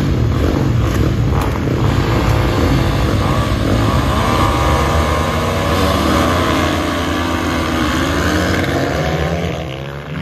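Motorcycle engine running under way, heard from the rider's position, with wind noise; the engine pitch climbs over several seconds, then falls away near the end as the sound eases off.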